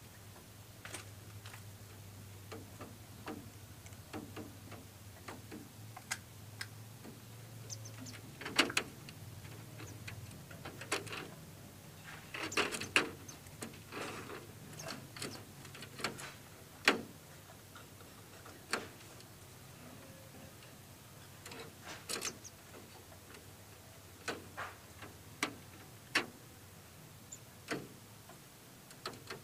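Irregular sharp clicks and taps, spaced unevenly from under a second to a couple of seconds apart, a few much louder than the rest. A faint low hum runs under the first ten seconds or so.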